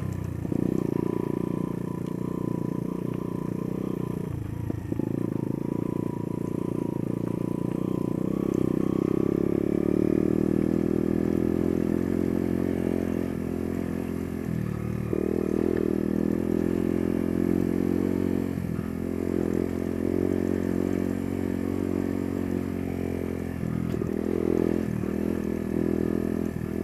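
Small single-cylinder off-road motorcycle engine running steadily while riding, its note dipping briefly as the throttle is eased a few seconds in and again about halfway through, with the bike rattling over a bumpy track.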